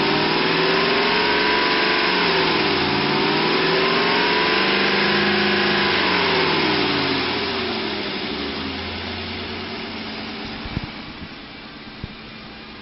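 2003 Ford Expedition's 5.4-litre V8 engine running, revved up and down twice before dropping back to a quieter idle.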